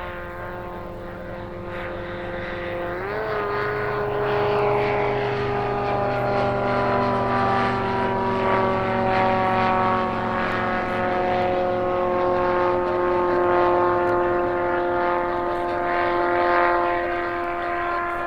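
Propeller light aircraft engine running and growing louder. Its note rises briefly about three seconds in, then sinks slowly.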